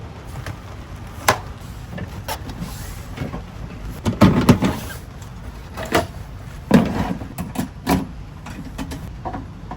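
Several knocks and clunks of gear being handled, the loudest cluster about four seconds in, over a low steady rumble.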